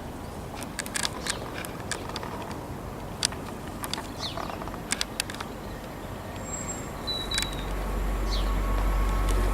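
Trackside outdoor ambience: scattered sharp clicks and a few short bird chirps over a low background hum, with a low rumble building over the last couple of seconds.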